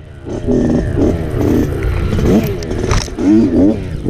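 Dirt bike engine revving up and down as the throttle is worked, picking up about half a second in. There is a sharp knock about three seconds in.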